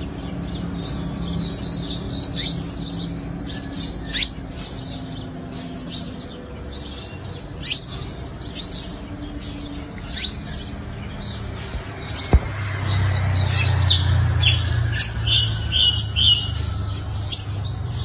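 Sunbird calling with a rapid run of short, high chirps, each dropping in pitch. About twelve seconds in there is a sharp knock, followed by a low rumble that swells for a few seconds beneath the chirps.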